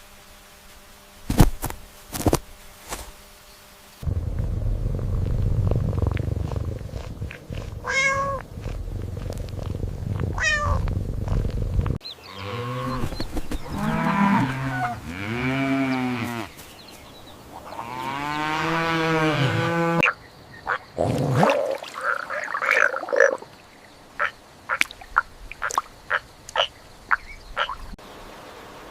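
A run of different animal calls cut one after another: a few sharp clicks, then two high calls over a low rumble, then two long calls that rise and fall in pitch, then a quick series of short chirps and clicks.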